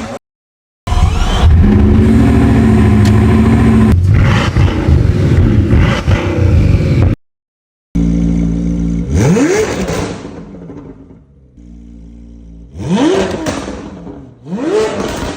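Two different high-performance car engines, one after the other. The first is held at high revs and is loud and steady for about six seconds. After a brief cut, the second idles and is blipped three times, each rev rising sharply in pitch and then falling back.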